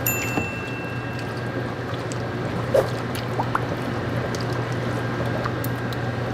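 Liquid pouring and sloshing in a cooking pot as milk goes into a cream of celery soup sauce. There are a few light clicks and a steady low hum underneath.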